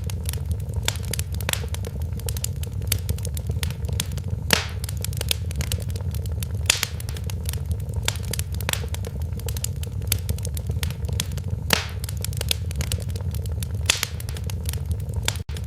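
Wood fire in a fireplace crackling: many irregular sharp pops and snaps, a few louder ones, over a steady low rumble of the flames. The sound cuts out for an instant near the end.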